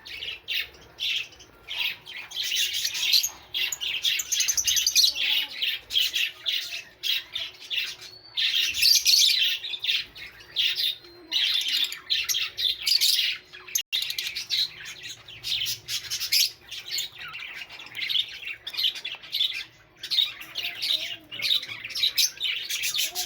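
Lovebirds chattering and squawking: a dense, continuous run of short, high-pitched calls with only brief pauses.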